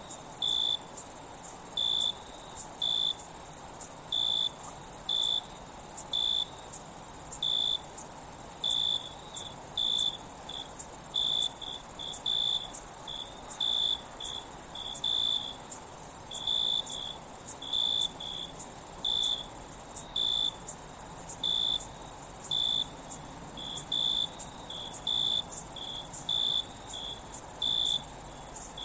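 Night insect chorus: crickets chirping in short, irregular pulses, about one or two a second, over a continuous high-pitched insect trill.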